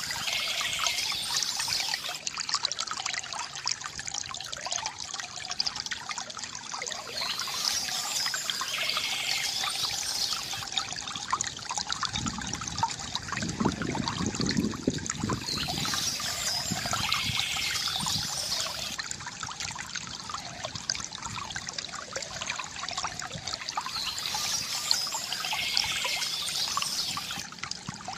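Water from a bamboo fountain trickling and splashing steadily into a basin. A short burst of bird chirping recurs about every eight seconds, four times in all.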